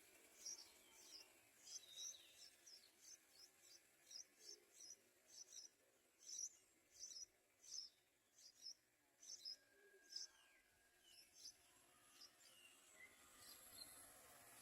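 Yellow-vented bulbul chick giving faint, short, high begging chirps, about two a second, which thin out after about eleven seconds.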